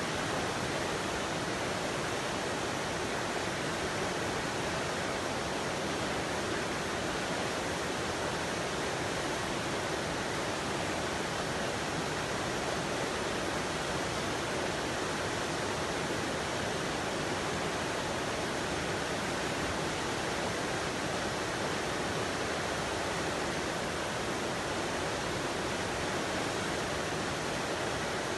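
Steady, even rushing noise that does not change at all.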